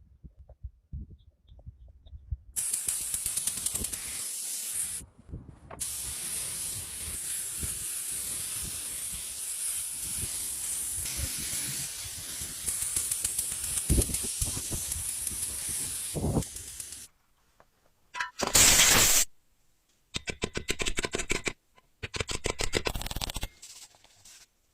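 Spray hissing steadily for about fourteen seconds, with a brief break early on. It ends, then comes a short loud burst of spray and a fast run of rattling ticks.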